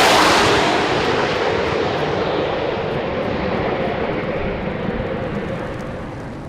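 2025 Corvette ZR1 with its twin-turbo V8 passing at very high speed: the rush of engine and wind is loudest right at the start, then fades steadily as the car runs away down the straight.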